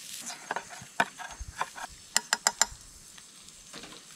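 Eating utensil clinking and scraping against camp cookware, with a quick run of four sharp taps about halfway through.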